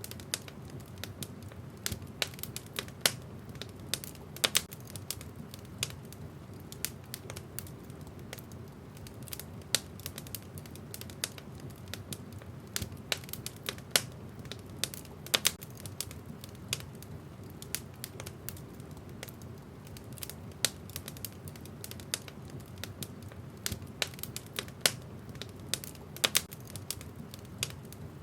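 Wood fire burning in a fireplace: logs crackling with irregular sharp pops, some much louder than others, over a low steady rumble of the flames.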